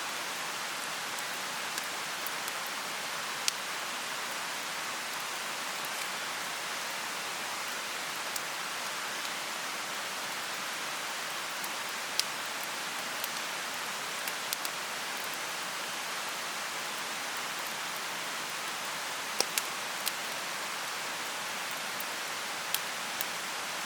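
Steady rushing of a mountain stream, with occasional sharp pops from a wood bonfire: single pops scattered through and a small cluster about twenty seconds in.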